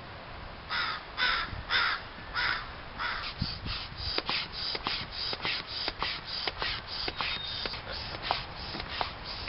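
A bird giving a run of harsh, caw-like calls: four slow calls about half a second apart, then a quicker series of about three calls a second.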